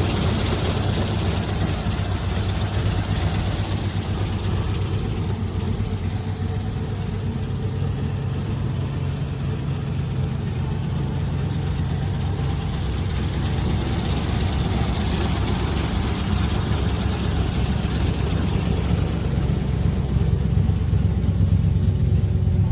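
1953 Ford F1's 239 cubic inch flathead V8 engine running steadily at about idle, a little louder in the second half.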